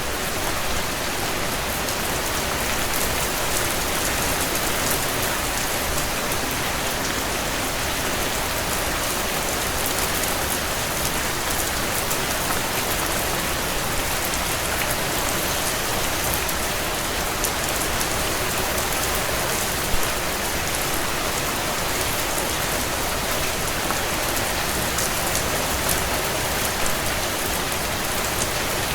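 Steady heavy rain pattering on window glass, with a few sharp crackles and pops from a wood fire in a stone fireplace, the loudest about 20 seconds in.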